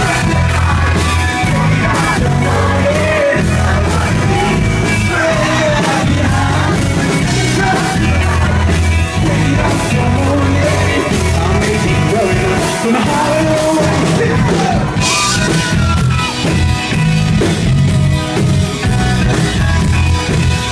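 Live rock band playing a song: a bass line moving in steady steps, drums and cymbals, and a voice singing over it, loud and even throughout.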